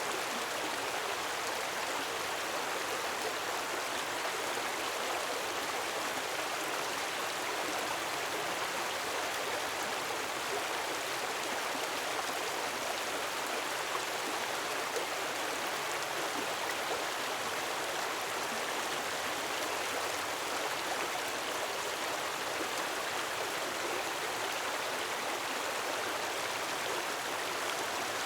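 Gentle waterfall of running water, a steady, even rush with no breaks or changes.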